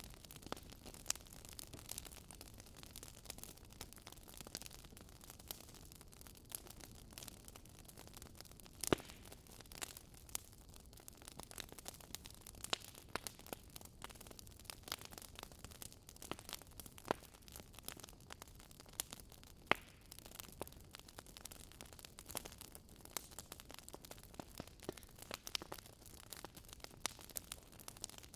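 Wood campfire crackling: a constant scatter of small pops and snaps over a faint steady hiss, with a few sharper pops, the loudest about nine seconds in and another near twenty seconds.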